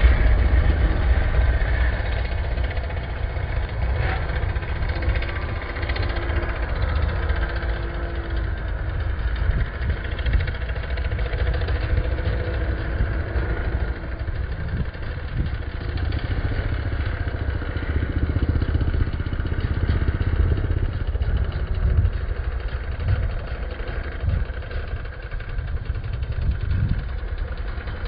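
Motocross bike engines running, with several engine notes rising and falling over a steady low rumble.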